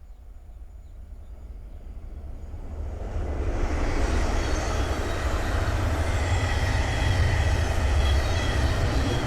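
Thameslink Class 700 electric multiple unit approaching and passing at speed, building up over the first few seconds into a steady loud rush of wheel and rail noise with a low rumble and a few faint steady high tones.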